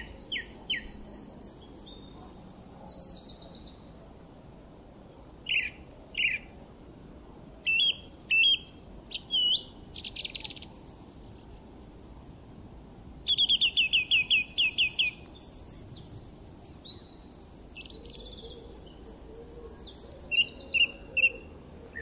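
Birds singing in separate phrases of high chirps and trills with short pauses between them, the loudest a rapid run of repeated notes about halfway through, over a faint steady background hiss.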